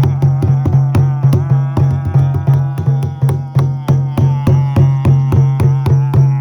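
Music with a frame drum beaten steadily, about three to four strokes a second, over a low steady drone and a wavering melodic line.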